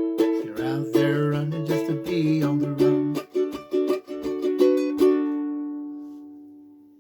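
Ukulele strumming the song's closing bars, ending on a final chord about five seconds in that rings and slowly fades away.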